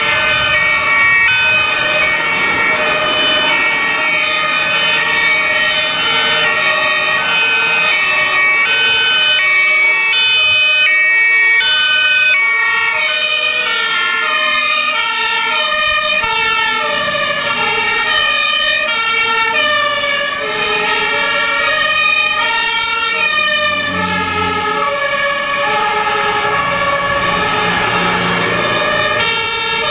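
Several German fire engines' two-tone sirens (Martinshorn) sounding at once, their alternating high and low notes overlapping out of step. The busiest stretch is in the middle, and a lower, heavier sound joins in after about 24 seconds.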